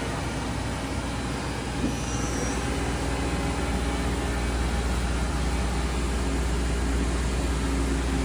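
Steady low machine hum with a faint steady tone above it, growing slightly louder over the seconds.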